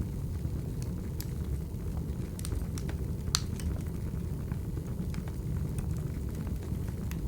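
Wood fire burning: a steady low rumble of flames with scattered sharp crackles and pops, one louder pop a little over three seconds in.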